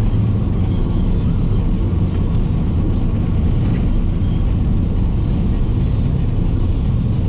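Steady road and engine rumble inside a moving car, with music from the car radio playing underneath.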